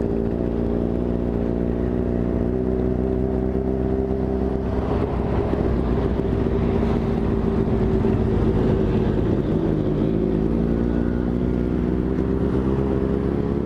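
Dafra Next 250's single-cylinder engine running steadily while riding, with a rushing noise swelling in the middle. The engine note dips slightly near the two-thirds mark, then holds steady again.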